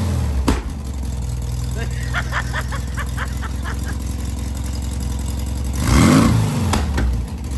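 Rebuilt air-cooled flat-four engine of a 1970 Volkswagen Beetle running at a steady idle, then revved up and back down about six seconds in.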